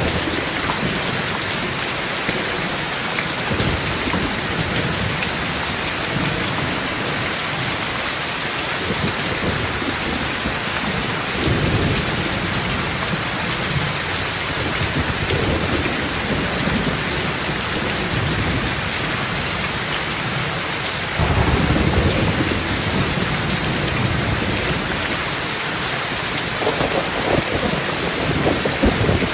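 Steady rain falling, with several low rolls of thunder rumbling through it. The loudest roll comes about 21 seconds in and lasts about two seconds.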